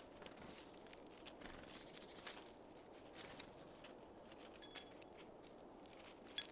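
Small birds at a seed feeder: scattered faint taps and pecks with a few short, high chirps, then a sharp clink near the end.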